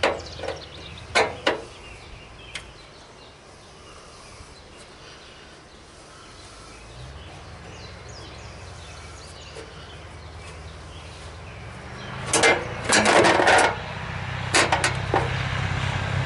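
A passing farm vehicle's engine hum building steadily louder from about halfway through. Over it, a few sharp clicks near the start and a loud burst of clicks and knocks near the end, from handwork on the plastic mower hood and grill.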